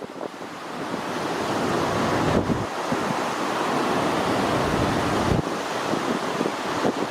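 Strong wind buffeting the microphone: a steady, dense rush of noise with gusts, as in a gale while filming crosswind landings.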